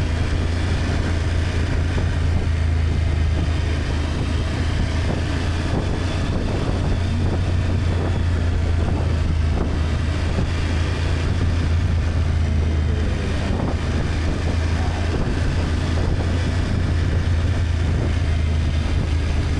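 BMW F800GS parallel-twin engine running at a steady cruise, with a constant low drone and wind noise on the microphone.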